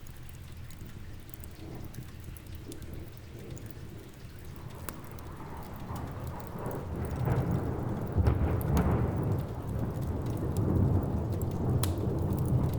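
Steady rain with scattered sharp crackles, while a long roll of thunder builds up from about halfway through and rumbles on to the end.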